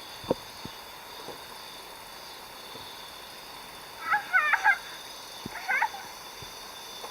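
A few short animal calls, a cluster about four seconds in and a single one near six seconds, over faint scattered clicks and a steady high hiss.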